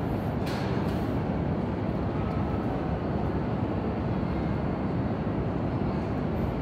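Steady low hum and rumble of an E5-series Shinkansen standing at the platform with its onboard equipment running, with a brief hiss about half a second in.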